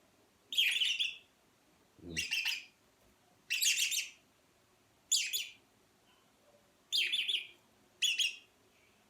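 Red-rumped parrot singing: six short warbled, chirping phrases spaced about a second and a half apart.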